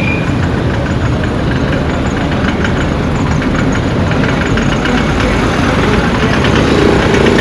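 A motor vehicle's engine running steadily, with a dense low rumble of engine and road noise.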